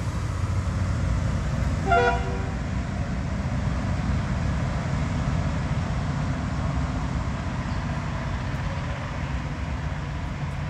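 Diesel train standing after an emergency brake stop, its engine running at a steady low rumble; about two seconds in, a short horn toot.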